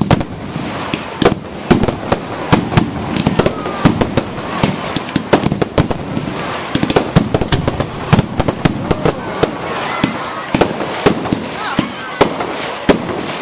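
Fireworks going off in rapid succession, many sharp bangs and crackles a second, over the murmur of a crowd of onlookers.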